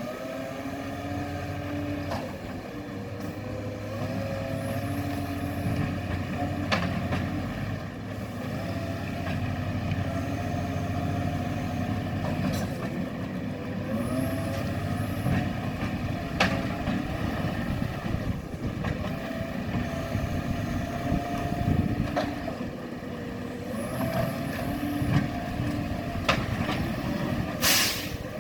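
Garbage truck's diesel engine running, its pitch rising and falling repeatedly as it revs and eases off, with a few scattered knocks and a short loud hiss near the end.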